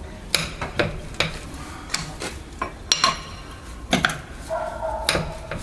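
Metal clinks and knocks of a wheel wrench on a car's wheel bolts as they are loosened, with a short squeak near the end.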